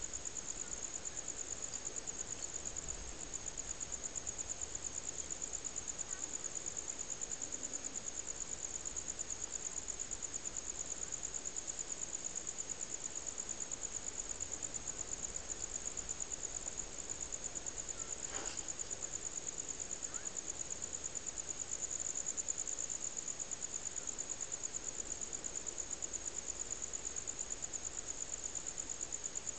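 Crickets trilling: a steady, high-pitched, fast, even pulse that does not stop.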